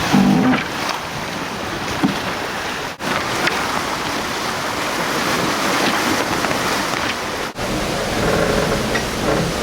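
Water rushing past the hull of a sailing catamaran moving fast, at about 15 to 16 knots, with wind noise on the microphone.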